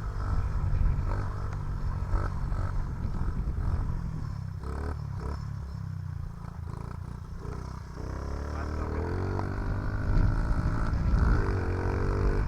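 A 2007 Honda CRF50F's small four-stroke single-cylinder engine running, its pitch rising twice in the second half as it is revved.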